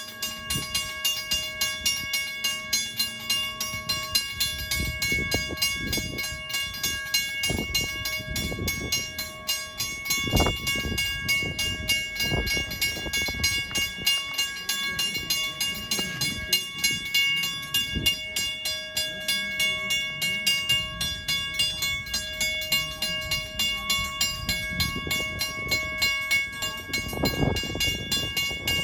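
Long Island Rail Road electric train with a steady whine held at several fixed pitches, over a continual irregular clatter and knocking that grows louder near the end.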